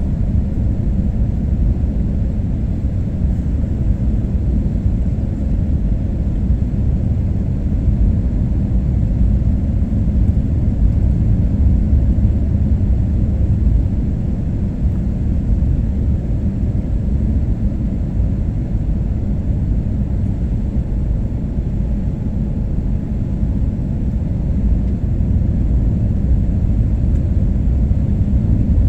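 Passenger airliner cabin noise: a steady low rumble of jet engines and airflow, heard inside the cabin during the approach to landing.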